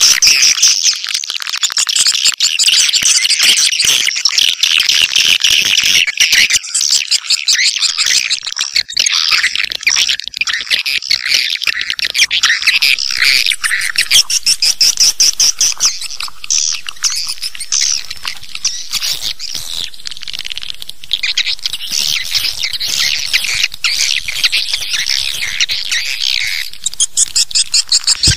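Swiftlet calls: a dense, continuous stream of rapid, high twittering chirps, the kind of swiftlet call recording played to lure swiftlets into a nesting house.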